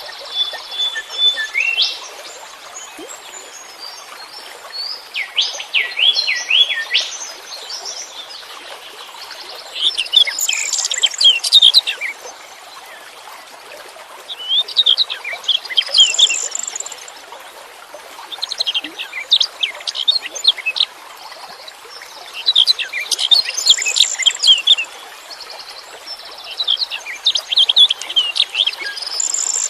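Songbird song: about seven bursts of rapid, high chirps and quick trilled whistles, one every four or five seconds, over a steady faint hiss.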